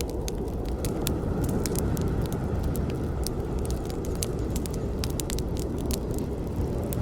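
Campfire burning: wood crackling with many sharp, irregular snaps and pops over a steady low rush of the flames.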